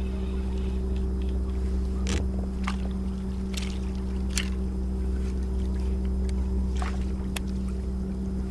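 Steady hum of a trolling kayak's motor, with a few short, sharp ticks over it.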